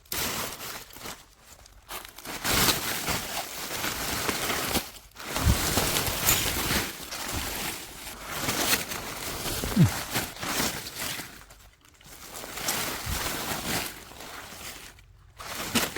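Dry leaves and plant debris rustling and crunching as they are turned over by hand, in irregular spells with short pauses.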